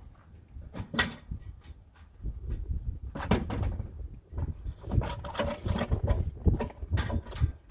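Irregular knocks, clicks and clatter of hand work, with a low rumble underneath. The sharpest knocks come about a second in and past three seconds, then a busier run of them near the end.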